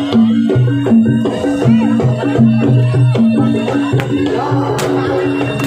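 Live Javanese dance-accompaniment music: drums and struck percussion over a low melodic figure that repeats about twice a second, with a sharp crack a little under five seconds in.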